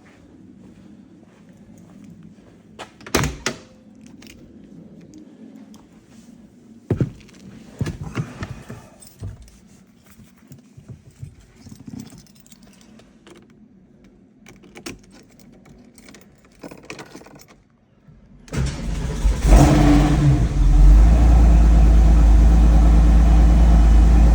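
Porsche 993's air-cooled flat-six cold-starting: after a series of scattered clicks and knocks, the engine cranks and catches about 18 seconds in, flares up briefly, and settles into a steady, fast cold idle.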